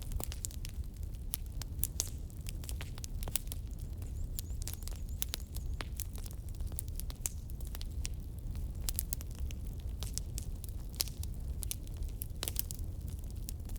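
Burning firewood crackling and popping, with irregular sharp snaps scattered throughout over a steady low rumble.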